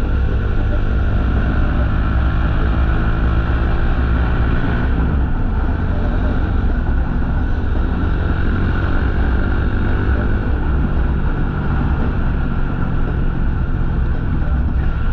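Motorcycle engine running at steady cruising speed under a rush of wind noise. The engine note shifts about five seconds in, as with a gear or throttle change.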